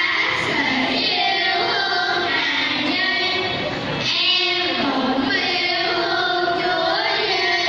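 Children's choir singing a Christmas carol in Vietnamese.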